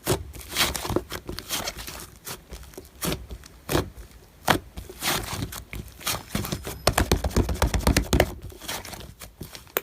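Slime being squished and stretched by hand: irregular crackling clicks and pops, thickening into a quick run of clicks about seven seconds in.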